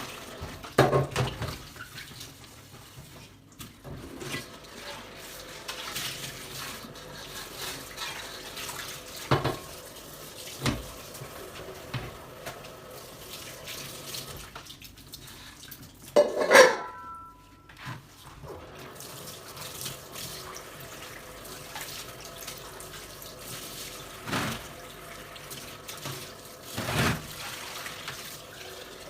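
Water running from a tap into a sink while dishes are handled, with scattered clinks and knocks of dishes every few seconds. The loudest clatter comes about halfway through, followed by a short ring.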